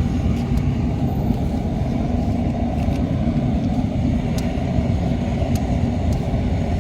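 Steady low rumble with a few faint, sharp ticks over it.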